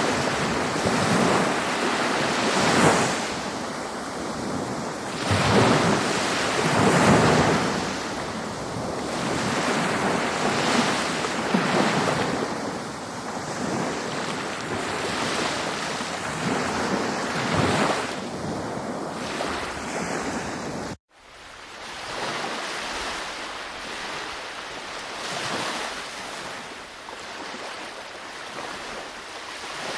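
Ocean waves breaking and washing on a shore, the surf swelling and fading every few seconds. About two-thirds of the way through, the sound cuts out abruptly for a moment, then resumes as softer surf with less low rumble, like a splice between two recordings.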